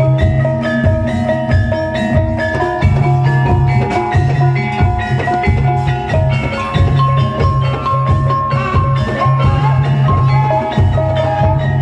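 Javanese gamelan music accompanying a barongan dance: bronze metallophones play a ringing melody over steady drum beats.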